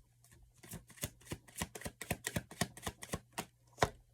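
Tarot cards being handled: an uneven run of quick taps and flicks, several a second, starting about a second in.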